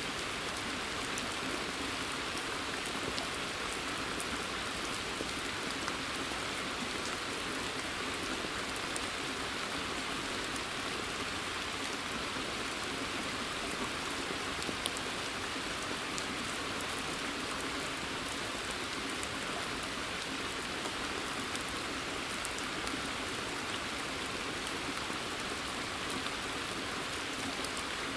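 Steady rain falling in a forest, with many small drops pattering on a pond's surface and leaves, and now and then a single nearer drop ticking out.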